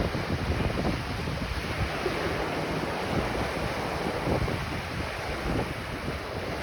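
Ocean waves washing onto a beach in a steady surf, with wind buffeting the microphone in irregular gusts.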